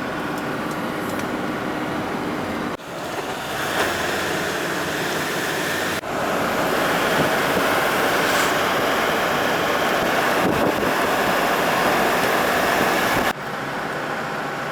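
Steady road and wind noise of a vehicle on the move, with no voices. It breaks off abruptly and restarts three times, and it is loudest in the middle stretch.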